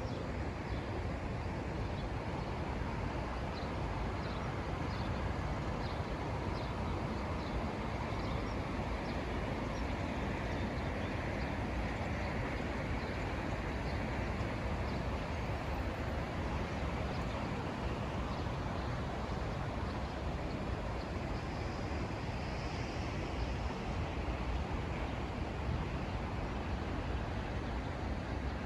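Steady outdoor background noise with a low rumble like distant traffic. Faint short high chirps repeat through the first ten seconds or so.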